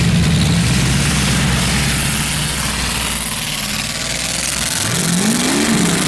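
Demolition derby car's engine running steadily, then fading, with one rev that rises and falls about five seconds in.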